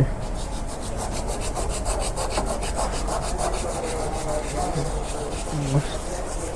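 Motorcycle front brake pads being rubbed down by hand on an abrasive, with quick, even back-and-forth scraping strokes, several a second. They are being roughed up to cure the noise the front brake has made since the last service.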